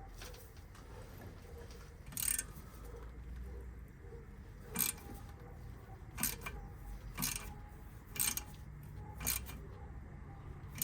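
Sharp metallic clicks and taps of steel parts and tools during front brake pad work on the caliper, seven separate knocks, the later ones about once a second.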